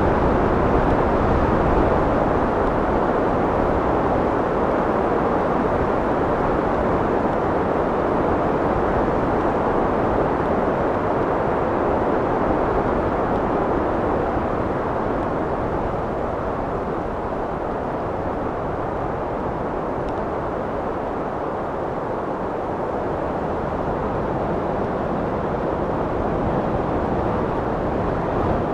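Steady wind, a continuous low rushing noise without gusts or breaks that eases slightly midway and builds again toward the end.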